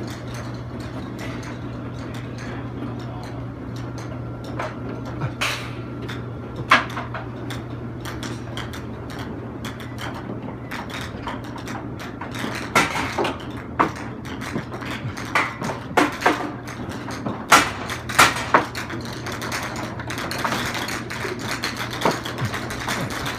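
Driving-range golf ball dispenser running out of control, golf balls dropping out and clattering down in irregular sharp clicks over a steady low machine hum. The clicks come more often and louder from about halfway through.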